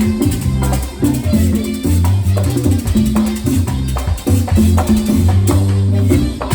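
Live merengue band playing, with a güira scraping over bass and drums.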